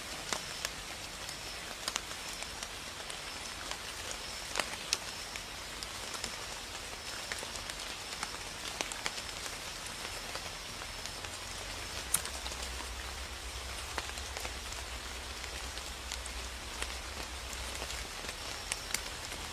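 Light rain falling: a steady hiss with scattered sharp ticks of single drops.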